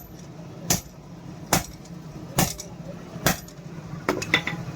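Hammer blows on steel at a slow, even pace of a little more than one strike a second, forging old bearing steel into a knife blank, followed near the end by a few lighter taps. A steady low hum runs underneath.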